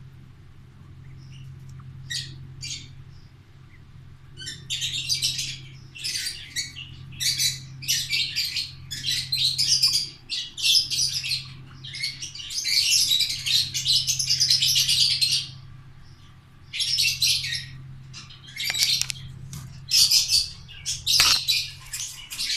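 Pet birds chirping and chattering in busy bursts of high-pitched calls, sparse at first and then almost continuous, with short pauses. A steady low hum runs underneath.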